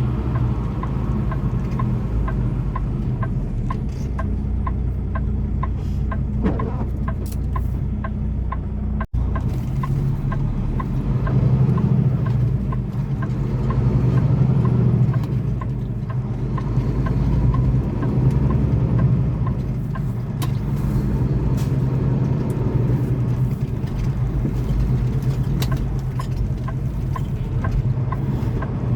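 Semi truck's diesel engine running steadily at low speed, heard from inside the cab, its note swelling briefly partway through.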